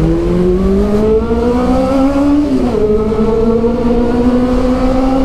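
Honda CB400's inline-four engine through a Two Brothers aftermarket exhaust, pulling hard with its pitch rising steadily. The pitch dips briefly about two and a half seconds in at an upshift, then holds and climbs slowly again. The exhaust note echoes off the structure overhead.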